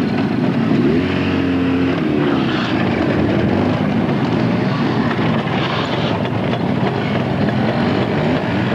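Soviet-era motorcycle engine running, its pitch rising and falling about one to two seconds in as it is revved, then carrying on as a steady drone.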